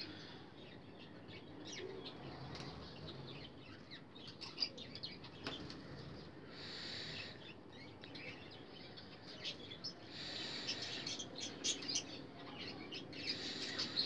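Small cage birds chirping in the background: many short high calls, with a few denser stretches of chatter.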